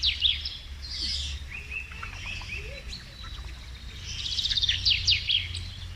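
Small songbirds singing: a burst of rapid high trills and chirps near the start and another about four seconds in, with lower chirping notes between.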